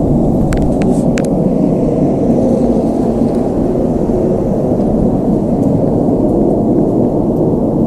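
A loud, steady low rumble with no clear pitch, with a few sharp clicks about half a second to a second in.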